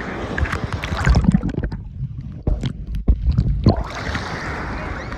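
Sea water splashing and sloshing around the camera with wind rumbling on the microphone, plus a couple of knocks. For a second or two in the middle the sound goes muffled.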